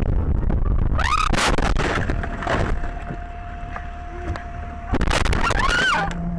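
A car crash caught on a dashcam: a loud smash with a squealing, arching pitch, heard twice about four seconds apart over low cabin rumble. Between the two there is a steady single-pitched tone.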